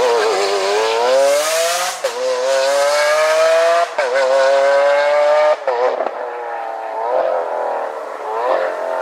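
Lamborghini Aventador SV's V12 through an aftermarket Fi exhaust, accelerating hard through the gears. The engine note climbs and drops sharply at three quick upshifts, about two, four and five and a half seconds in. After that it falls away and gets quieter, with a couple of brief revs near the end.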